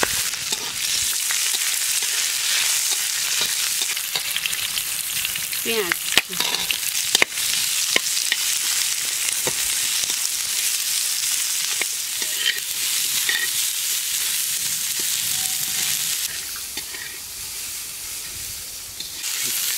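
Cumin, green chillies, ginger, garlic and sliced onions sizzling in hot oil in a metal kadai, being lightly fried, while a metal spatula stirs and scrapes the pan. A few sharp knocks of the spatula on the pan come around the middle. The sizzle quietens for a few seconds near the end.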